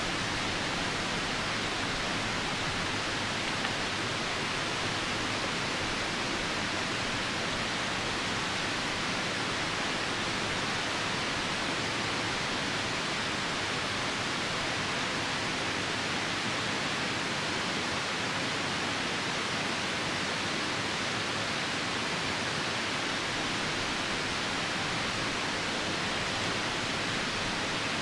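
Steady rushing of a nearby river with rain falling, an even hiss that does not change.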